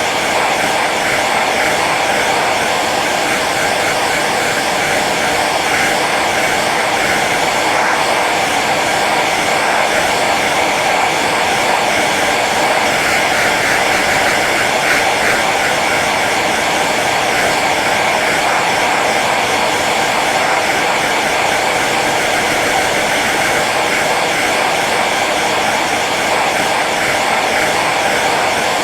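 Hair dryer running steadily on its low setting: a continuous, even rush of air and motor noise.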